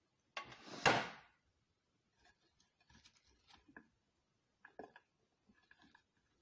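Kitchen handling noises: a loud, noisy burst about a second long just after the start, then scattered light clicks and knocks as dishes and food are handled.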